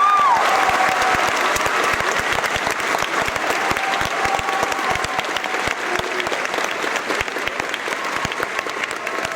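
Audience applauding, dense clapping that eases off slightly toward the end, with a held whoop from the crowd dying away at the start.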